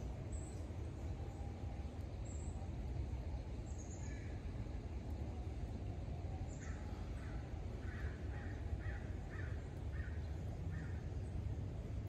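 A crow cawing, a run of about eight caws in the second half, over a steady low rumble, with a few faint high bird chirps earlier.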